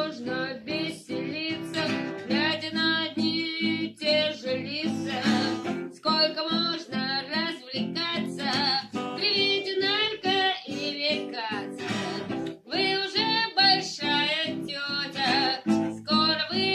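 Live acoustic song: strummed acoustic guitar under a wavering sung melody line, in continuous phrases.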